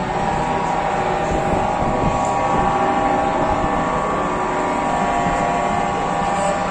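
Lorries driving past in a parade, their engines making a steady, unbroken drone.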